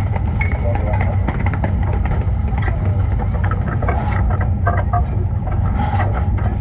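A vehicle engine running with a steady low rumble, with scattered clicks and knocks over it.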